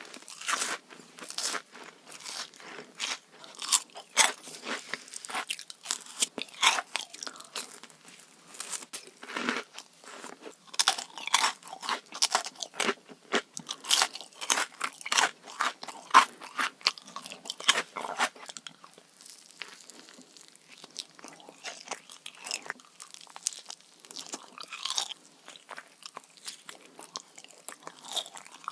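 Close-miked eating: crisp bites and crunchy chewing of a sugary dessert, dense sharp crunches for the first two-thirds, then sparser and softer chewing near the end.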